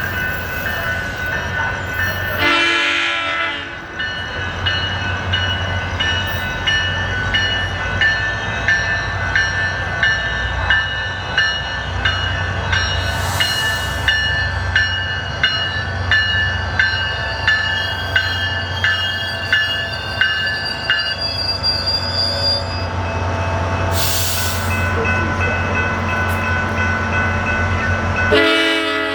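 Passenger train at a station: a low engine rumble, with steady high tones and a sharp rhythmic ringing or clicking about once a second.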